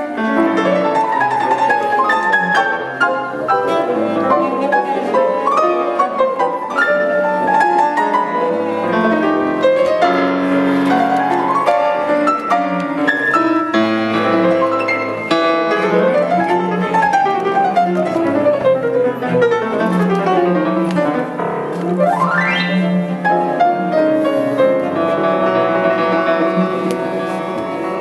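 Classical music: piano with an orchestra's bowed strings, many shifting notes, with one quick rising glide about three quarters of the way through.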